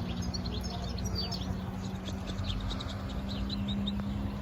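European goldfinch singing: a fast run of many short, high chirping notes.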